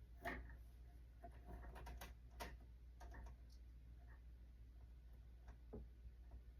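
Near silence with a few faint, irregular clicks and taps, like small objects being handled.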